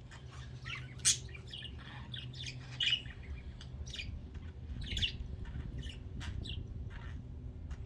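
Budgerigars chirping and squawking in short, scattered calls, with sharper squawks about a second in and near three seconds.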